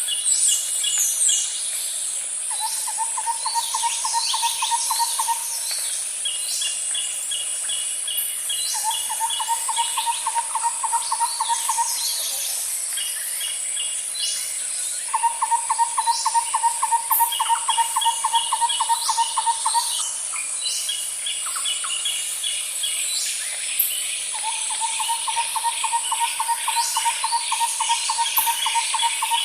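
Nature ambience of a steady high insect drone, with long pulsing trills at a low-middle pitch repeating every few seconds and scattered quick chirps and short falling bird calls over the top.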